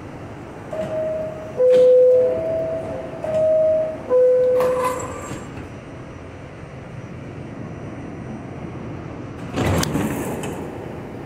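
R68 subway car door chime sounding its two-note high-low tone several times over a steady train-interior hum. About nine and a half seconds in, a short burst of noise follows, likely the doors shutting.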